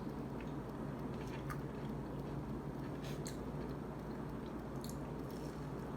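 A person chewing food with a few soft, wet mouth clicks.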